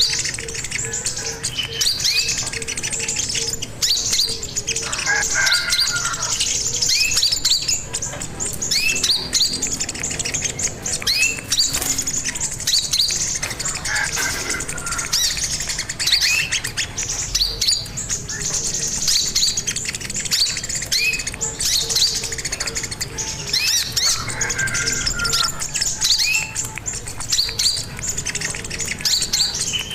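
Sogon (little spiderhunter) singing: a long run of sharp, high chirps repeated several times a second, with short rising notes between them.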